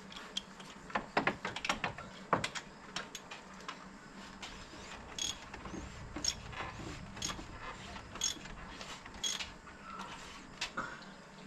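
A run of short, light mechanical clicks and ticks from tools being worked on an engine, bunched together at first and then coming about once a second.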